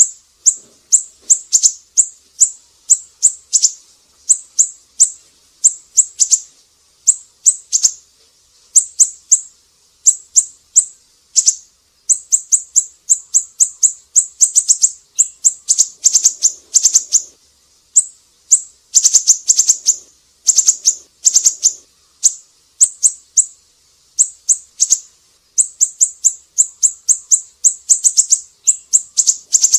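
Siri-siri bird calling vigorously in rapid runs of short, high, sharp chirps, several a second, with brief pauses between runs.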